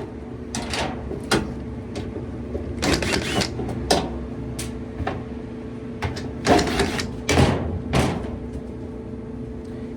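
Irregular clicks, knocks and rattles of a Kenmore dryer door's parts being handled and unscrewed to fit a new handle, loudest a few seconds before the end. A steady low hum runs underneath.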